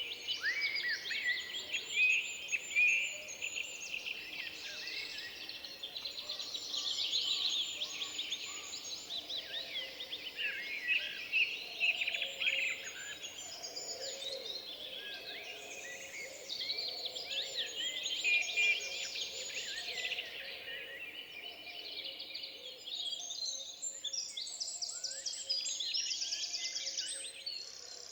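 Many songbirds singing at once: a dense chorus of overlapping chirps, trills and whistled glides over a faint steady hiss of forest background.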